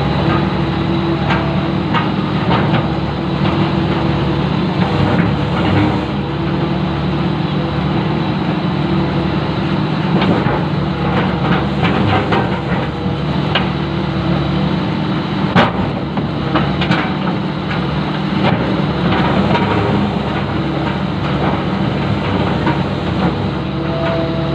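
Long-reach excavator's engine running steadily, with scattered knocks and clanks and one sharper knock about two thirds of the way through.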